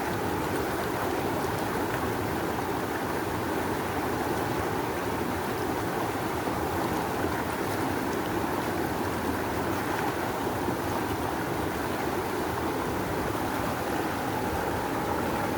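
Rushing river: strong water current flowing steadily, a continuous even rush strongest in the middle range.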